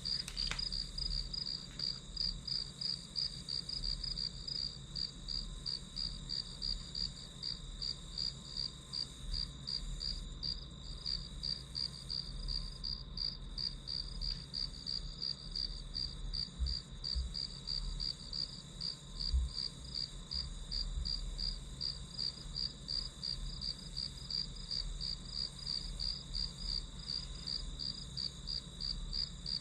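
Crickets chirping in an even, unbroken pulsed rhythm, with a few soft low thumps about midway.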